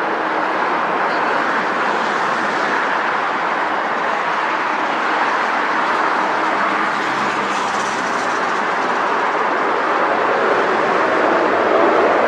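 Airliner jet engines running, a steady rushing noise with a faint high whine around the middle.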